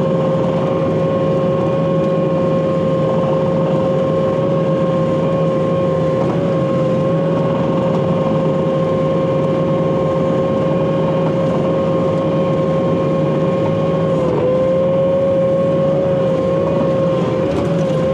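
Bobcat compact track loader running under steady working load, a diesel rumble under a loud, steady high whine from the machine, the pitch dipping briefly twice as it takes load.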